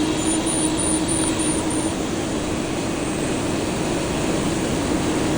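CNC lathe running steadily in a machine shop: a constant hum with a steady mid-low tone. A short run of faint high pips, about four a second, sounds over it in the first two seconds.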